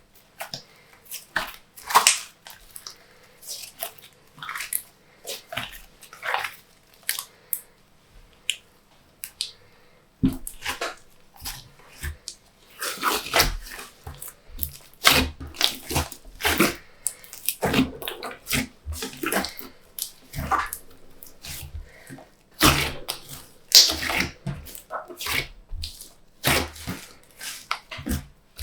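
Glossy slime being mixed and squished by hand, making a quick, irregular run of sticky wet clicks and pops.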